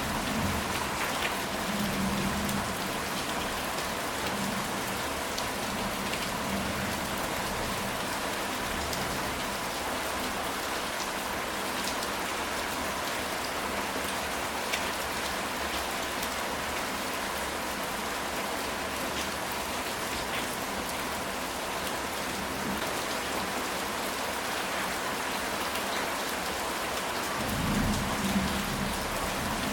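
Steady heavy rain drumming on a ceramic tile roof, with scattered single drips. A low thunder rumble sounds in the first few seconds and another near the end.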